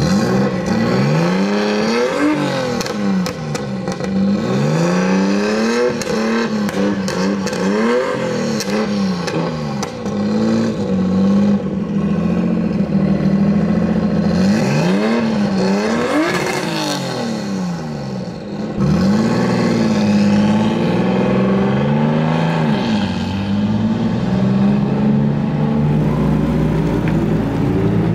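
Car engines revving over and over, the pitch climbing and falling back in repeated swells above a steady idle, with a scatter of sharp crackles in the middle.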